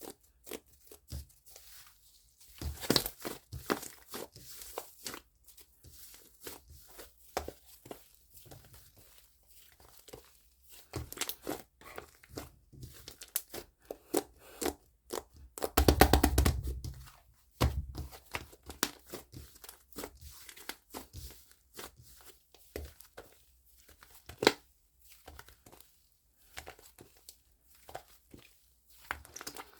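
Fluffy foam slime being squished and stretched by hand, giving irregular crackling and popping of small air bubbles, with one louder, longer burst about sixteen seconds in.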